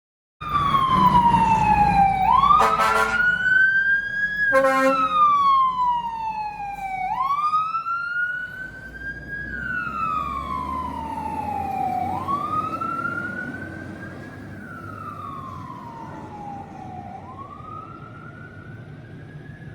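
Fire truck siren on a slow wail, rising and falling about every five seconds. Two short air horn blasts come within the first five seconds. The siren grows fainter through the second half.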